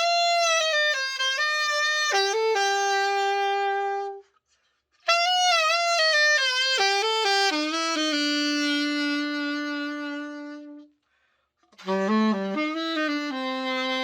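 Judith Custom Series III alto saxophone played solo after a full overhaul: three short melodic phrases, each ending on a long held note, with brief silences between them.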